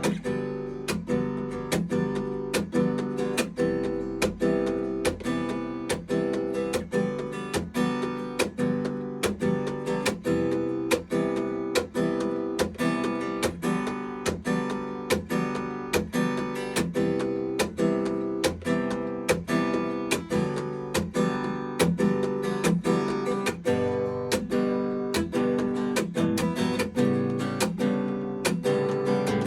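Martin OM-18 Authentic 1933 VTS acoustic guitar, mahogany body with an Adirondack spruce top, strummed in a steady rhythm of chords at about two strokes a second.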